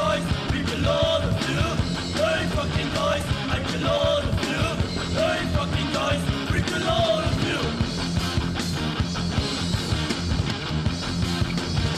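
Hardcore punk music played loud and steady by a full rock band.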